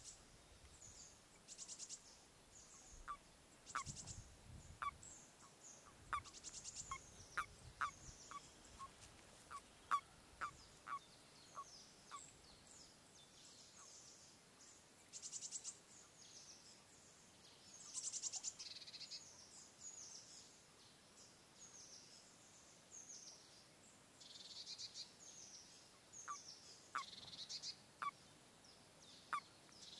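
Faint outdoor ambience of small birds chirping and singing, some calls a quick rattling trill, over a run of short clipped pips about one a second in the first third and again near the end. A brief low rumble a few seconds in.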